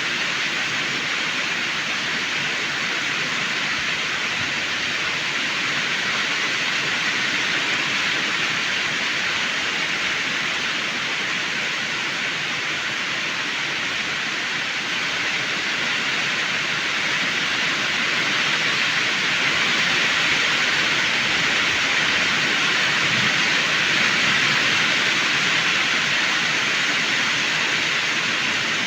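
Heavy rain falling steadily, an even hiss that swells a little about two-thirds of the way through.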